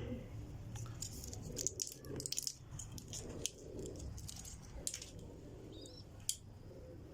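Scattered clicks and rattles of small objects being handled, a cluster of them about a second in and a single sharp click near the end, with pigeons cooing in the background.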